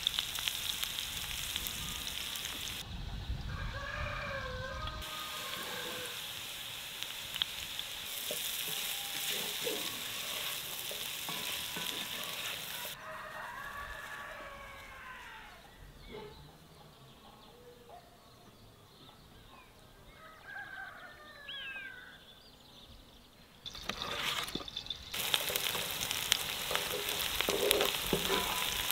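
Potatoes frying in oil in a large pan, a steady sizzle, broken by a quieter stretch of about ten seconds in the middle where chickens call. Near the end chopped onion and garlic sizzle loudly while a wooden spatula stirs and scrapes the pan.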